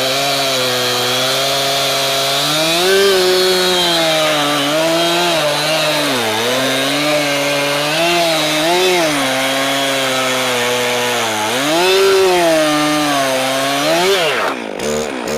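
Small gasoline engine of a Frontier OS27 band sawmill running under load as the blade cuts a log. Its speed repeatedly sags and recovers with the cut, and near the end it drops steeply as it winds down.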